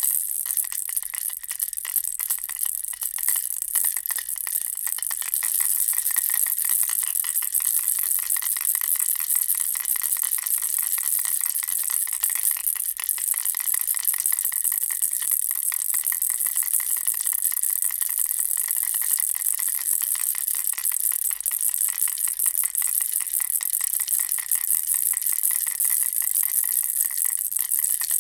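Baby rattle toy, a bear-and-ball rattle, shaken without pause: a dense, fast clatter of rattling, a little quieter for the first five seconds and then steady.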